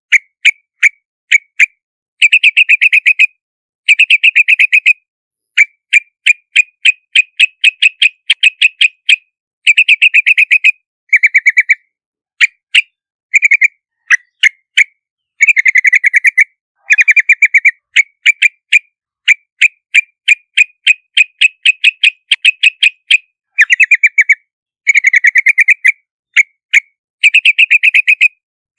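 Yellow-vented bulbul calling: fast chattering runs of sharp notes, each about a second long, alternating with spaced single notes, repeated over and over.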